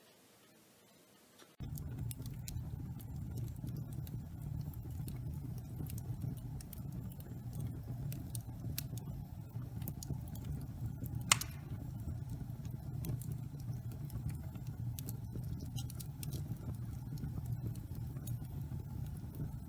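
Wood fire burning in a fireplace: a steady low rumble of flames with scattered crackles and snaps, and one loud pop about eleven seconds in. The fire sound starts abruptly about a second and a half in, after a faint hiss.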